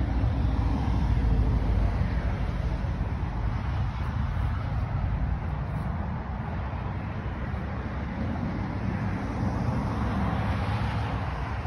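Ferrari V8 idling with a steady low rumble, a little louder in the first couple of seconds.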